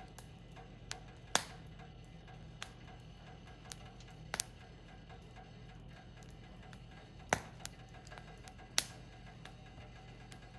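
Firewood burning in a small fire pit, crackling with about ten sharp, irregular pops and snaps, the loudest three a few seconds apart.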